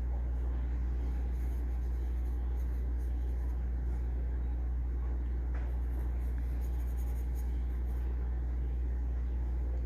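Graphite pencil scratching across paper as it draws, in irregular strokes, over a steady low hum.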